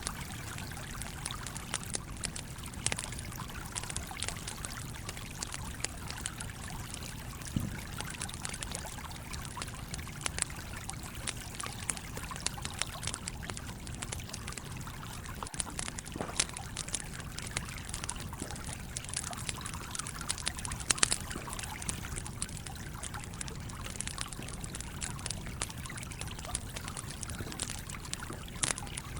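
Campfire crackling, with frequent small pops and a few louder ones, over the steady rush of a flowing stream.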